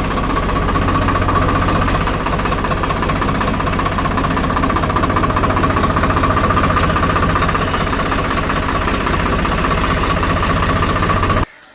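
Diesel engine of a tractor or JCB loader running steadily, with a rapid, even chugging. It cuts off abruptly near the end.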